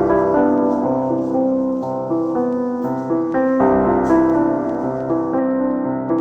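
Background music: a piano playing slow, gentle broken chords, with a fresh, stronger chord struck about three and a half seconds in.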